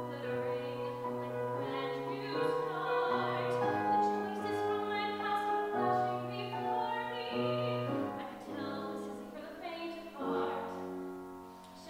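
Musical-theatre singing with piano accompaniment: a voice holds long notes over piano chords, growing quieter near the end.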